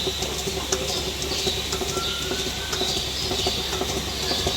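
Milking-parlour machinery running: a steady low hum with many small rapid clicks and higher chirping squeaks over it.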